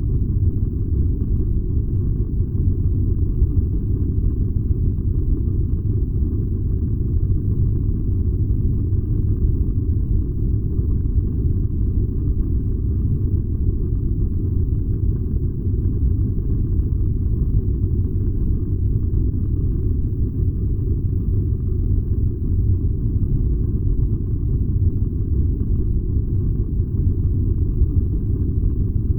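Furnace running: a steady, even low rumble with no breaks or changes.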